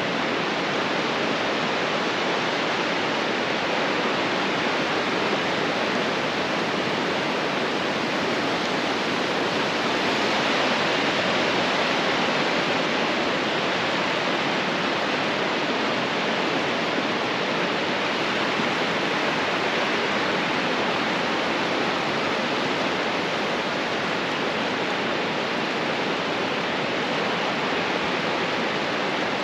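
Ocean surf washing on a beach: a steady, even rushing noise that swells slightly partway through.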